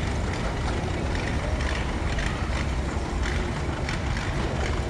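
Advance steam traction engine running under way, a steady low rumble with faint regular beats about twice a second.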